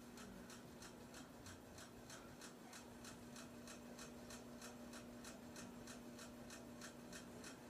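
42-inch Aloha Breeze hugger ceiling fan running on high: a faint steady hum with a light click about four times a second. The owner thinks the clicking probably comes from the bearings.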